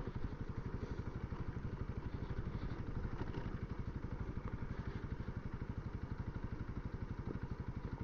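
Honda CRF300L's single-cylinder engine running steadily at low revs, its firing pulses heard muffled through a Bluetooth helmet intercom microphone.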